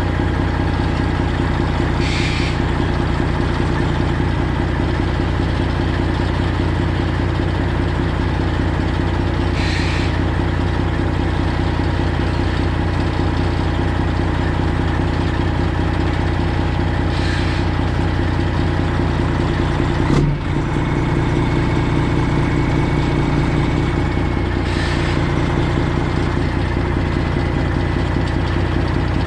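Detroit Diesel 12.7-litre engine of a semi truck idling steadily, with a short hiss about every seven seconds and a single sharp knock about two-thirds of the way through.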